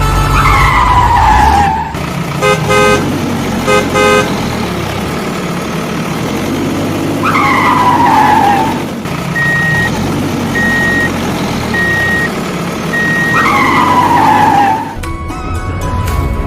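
Cartoon vehicle sound effects: an engine rumble under three falling whistle-like sweeps spaced about six seconds apart, with two short double honks of a horn about three seconds in and four short high beeps in the middle. Music takes over near the end.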